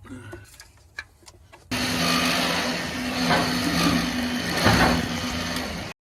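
A motor running loudly and steadily, starting abruptly a little under two seconds in and cutting off suddenly near the end.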